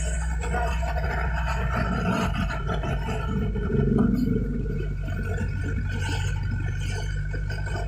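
Vehicle engines running in a slow traffic jam: a steady low hum with a steady higher tone over it, and a louder swell about four seconds in.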